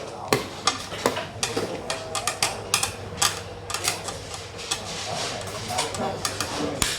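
Xiangqi pieces being put down on the board in many sharp, irregularly spaced clacks.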